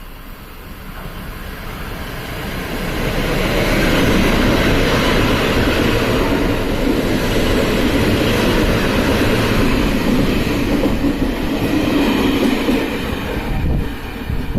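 Freight train passing. The rumble of its wagons builds over the first few seconds, runs loud and steady, and dips near the end.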